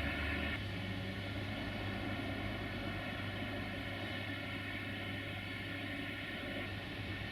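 Class 480 electric locomotive humming steadily, a sound made of many steady tones together, with no wheel beats.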